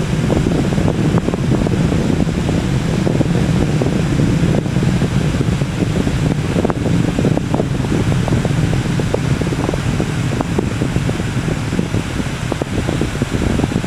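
Distant Delta II rocket's engines rumbling deep and steadily, with a ragged crackle through the low roar.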